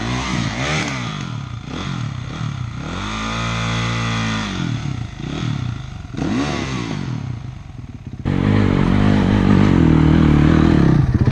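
Dirt bike engine revving up and down repeatedly as the throttle is opened and closed. About eight seconds in, a louder, steadier engine takes over.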